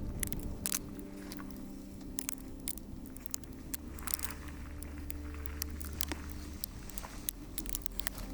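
Footsteps crunching and clicking irregularly on a gravelly hiking trail.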